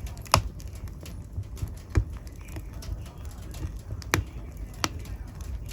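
Wood fire in a fireplace crackling over a low steady rumble, with a few sharp pops: the loudest about a third of a second in, and others at about two, four and five seconds.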